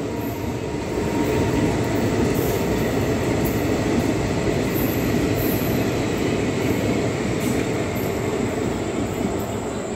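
Indian Railways express train running through a station at speed: a steady, loud noise of coaches and wheels on the rails as the carriages rush past.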